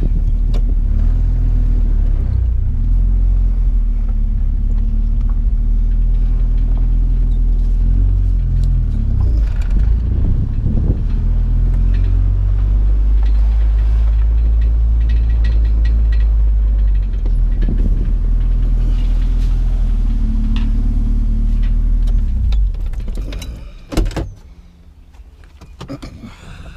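Motor vehicle, loaded with scrap, driving: a loud, steady low engine and road rumble. It drops away sharply near the end, followed by a single sharp knock.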